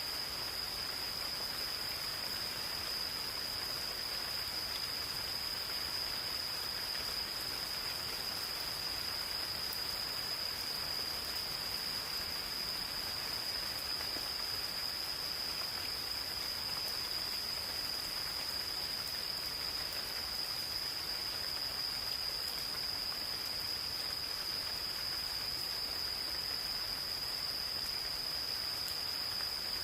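Gentle rain falling steadily in a forest, with a continuous high-pitched insect chorus held at one unbroken pitch.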